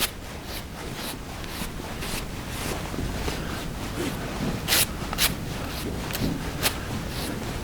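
Grooming brush strokes through a horse's mane: short rasping strokes about twice a second, a few of them louder than the rest.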